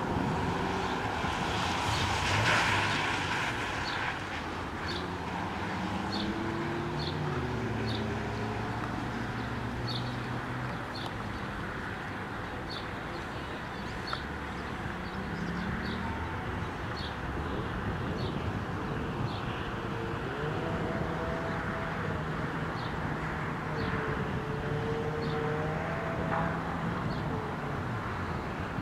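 Ford Mustang autocross car's engine, revving up and easing off again and again as it accelerates, brakes and turns through a cone course, over a steady hiss.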